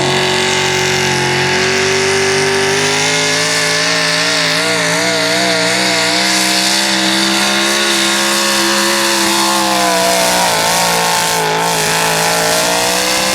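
Chevrolet 4x4 pulling truck's engine held at high revs under full load while it pulls the sled, with the pitch steady and wavering briefly a couple of times.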